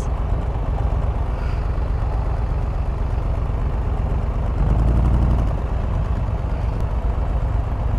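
Can-Am Spyder RT three-wheeler's Rotax three-cylinder engine running under way, with steady road and wind noise; a louder low rumble swells for about a second midway.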